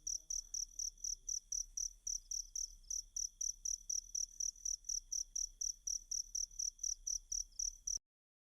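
Cricket chirping in a fast, even pulse of about five high-pitched chirps a second over a faint steady trill; the sound cuts off abruptly near the end.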